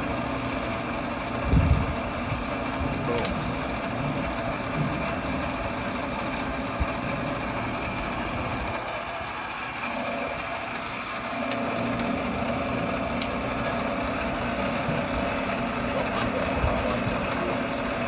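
Bridgeport Series 1 vertical milling machine running, its spindle and head gearing giving a steady hum with a whine while the quill power feed drives the quill. There is a low thump about a second and a half in and a few sharp clicks, one about three seconds in and two more later.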